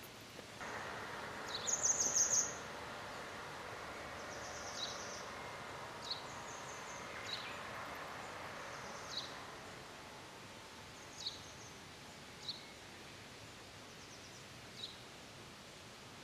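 Small forest birds calling: a quick run of high repeated notes about two seconds in, then short single high chirps every second or two. A faint steady rushing sound lies underneath for the first part and fades out.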